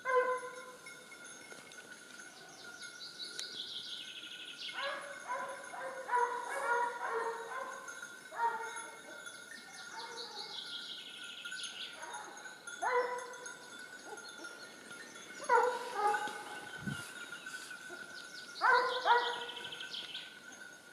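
Woodland birdsong: a high trill falling in pitch, repeated about every seven seconds, with groups of short, lower-pitched calls in between.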